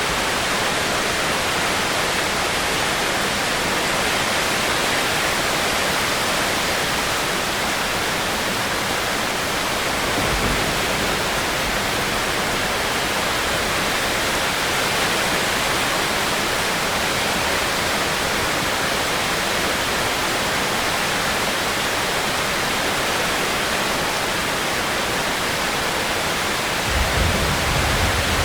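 Steady rain falling as an even hiss, with a brief low rumble about ten seconds in and another near the end.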